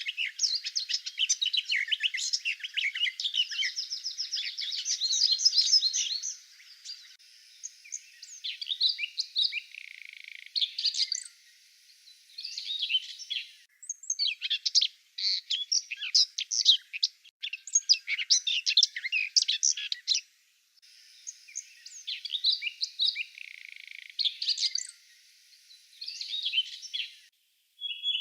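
Woodland songbirds singing, many overlapping chirps and trills. The recording is spliced, so it switches abruptly to a new stretch of song every six or seven seconds, with a brief gap at some cuts.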